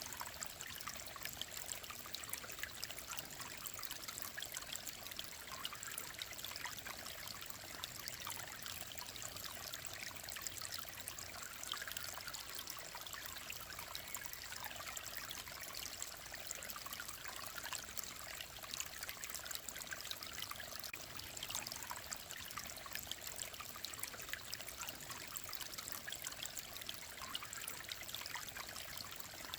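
Clear mountain stream running steadily, a continuous babble of water with many small splashes.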